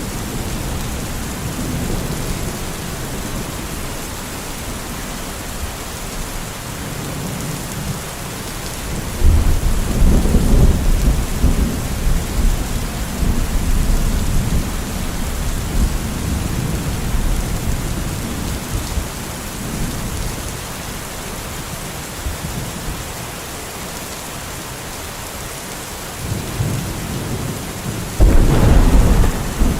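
Steady rain with thunder. A deep rumble of thunder breaks in sharply about a third of the way through and rolls on for several seconds, and another loud clap comes near the end.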